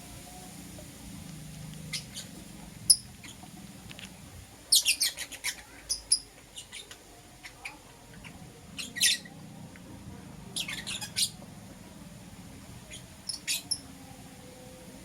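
Pet lovebirds chirping: short bursts of rapid, high-pitched chirps with pauses of a second or more between them, the busiest bursts about five seconds in and again around nine to eleven seconds.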